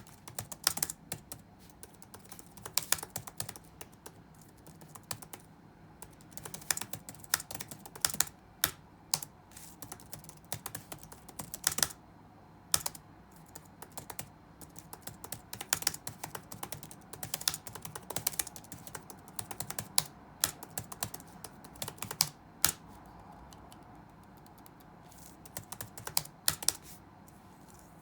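Computer keyboard being touch-typed in quick, irregular runs of keystrokes, with a few sharper, louder key hits and short pauses between bursts.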